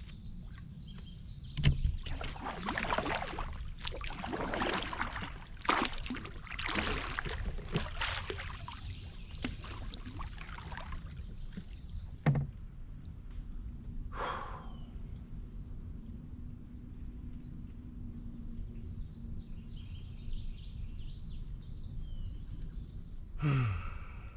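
Canoe paddling: water swishing with each paddle stroke, strokes coming about once a second for the first ten seconds, with a sharp knock of the paddle against the canoe twice. After one more stroke the canoe glides and it goes quieter.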